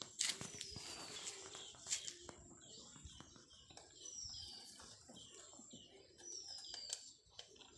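Bird chirping: short, high whistled notes that slide downward, repeated every couple of seconds, with a few faint clicks.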